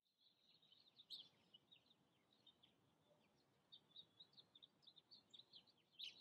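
Faint birds chirping outside: many quick, irregular high chirps over a soft background hiss.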